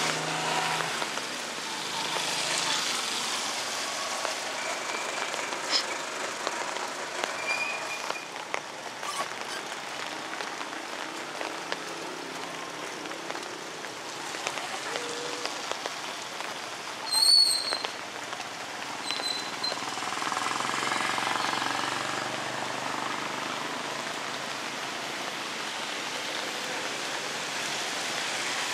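Steady light rain falling on a wet street and pavement, with the hiss of traffic on the wet road and faint voices. A brief high squeak cuts in about two-thirds of the way through.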